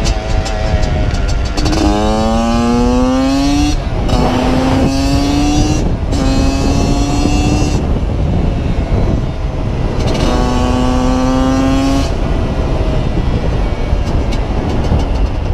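Motorcycle engine accelerating through the gears: its pitch climbs, drops back at each shift and climbs again, several times over.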